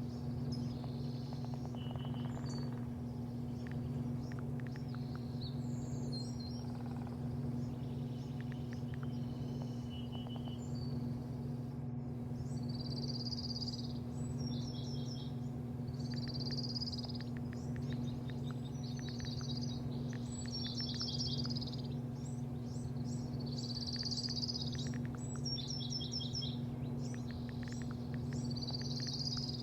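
Birds chirping in short repeated phrases, busier in the second half, over a steady low machine hum.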